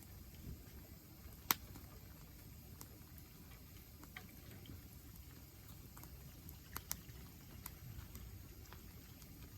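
Wood campfire crackling softly: scattered sharp pops over a low steady rumble, the loudest pop about a second and a half in and a few more close together near the end.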